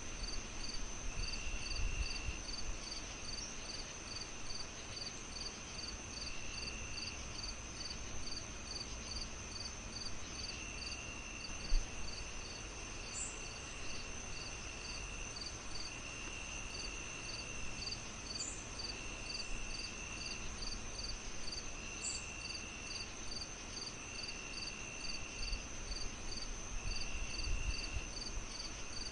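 Night insects calling together: crickets chirping in an even pulse about three times a second over a steady high trill, with a lower trill that comes and goes in second-long stretches. Beneath them is a low hiss, with one dull thump about twelve seconds in.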